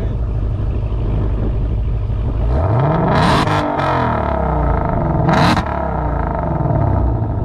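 Supercharged V8 muscle-car engine running, then revving up about two and a half seconds in, its pitch climbing and falling. Two brief loud rushes come near the middle and again about two seconds later.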